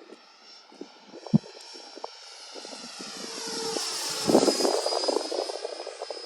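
Arrows F-86 Sabre radio-controlled electric ducted-fan jet making a pass: its high fan whine swells, is loudest going by about four seconds in, then carries on. Wind gusts buffet the microphone, and there is one sharp knock about a second in.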